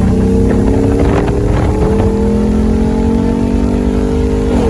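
Car engine accelerating, its pitch climbing steadily, then dropping sharply near the end as it shifts up a gear.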